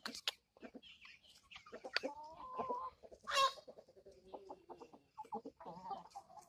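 A flock of backyard hens clucking in short, scattered calls, with one louder, higher-pitched call about halfway through.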